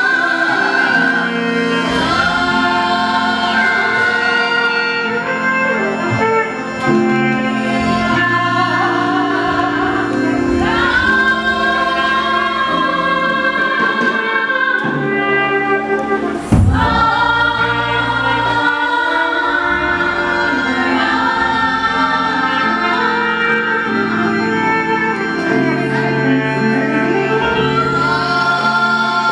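Choir singing a gospel song with instrumental accompaniment, with a brief knock about halfway through.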